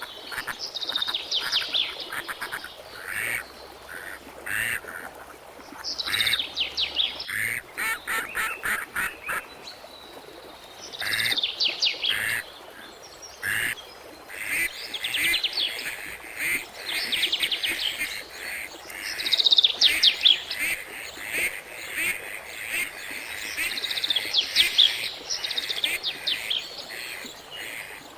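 Birds chirping and trilling in quick, repeated bursts, several calls overlapping.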